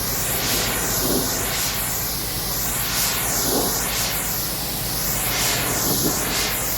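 Pressure-washer spray hissing steadily against the truck, its sound sweeping in a regular rhythm about once every second or so as the wand is swept back and forth.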